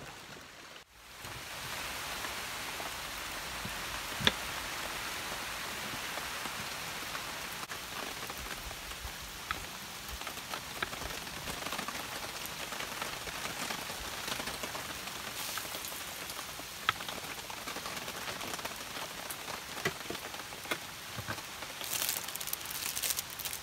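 Steady rain falling, with a few sharp knocks of a knife on a wooden cutting board, and a plastic bag crinkling near the end.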